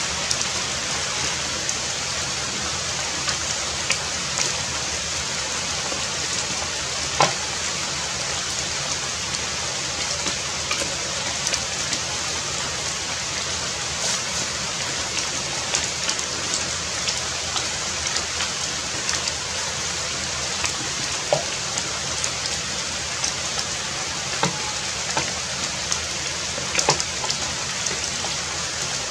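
Heavy rain falling steadily, with scattered sharper drop impacts ticking now and then.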